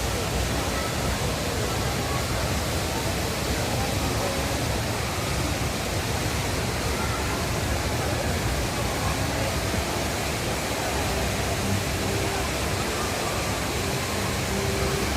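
The Rain Vortex indoor waterfall pouring down steadily: a constant, even rush of falling water.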